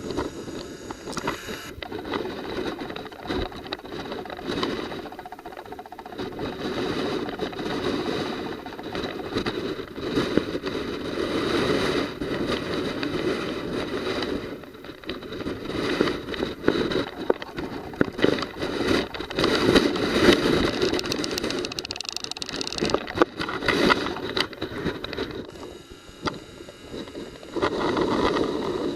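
Typhoon wind buffeting the microphone in gusts that rise and fall, over storm waves surging in the harbour.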